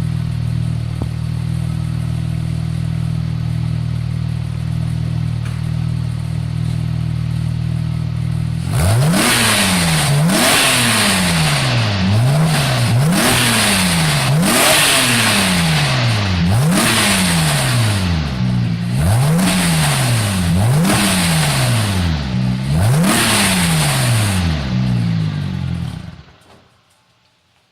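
2001 Porsche 996 Turbo's twin-turbo flat-six through a B&B Le Mans exhaust, idling steadily, then blipped again and again to about 3500 rpm, roughly one rev every two seconds, each rising sharply and falling back to idle. The engine stops near the end.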